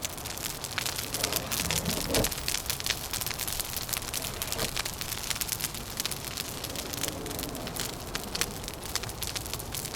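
Wood fire crackling with dense, irregular snaps and pops over a steady wash of wind noise.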